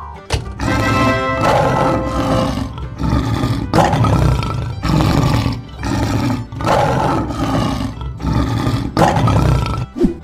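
Lion roar sound effect played again and again, each roar about a second long, over background music.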